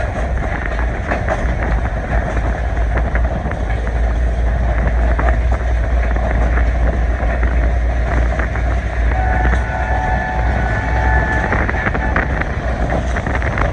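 A passenger train running along the track, heard from on board: a steady heavy rumble with wind buffeting and a scatter of clicks and knocks from the wheels and track. About nine seconds in, a faint wavering squeal comes in for a couple of seconds.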